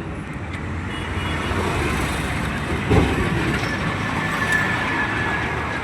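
Heavy vehicle engine running with a dense, steady rumble, a sharp thump about three seconds in, and a faint high whine in the second half.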